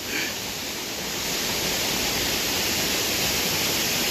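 Waterfall close by: a loud, steady rush of falling water, growing louder about a second in and then holding.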